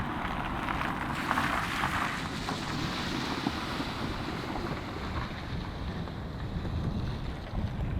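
Wind buffeting the microphone over a steady low rumble, with a hiss that fades away over the first few seconds.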